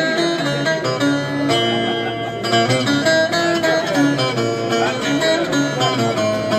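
Music played on plucked string instruments: an instrumental passage of held, changing melodic notes.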